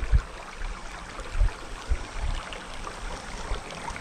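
Shallow creek water babbling steadily, with a few soft low bumps scattered through.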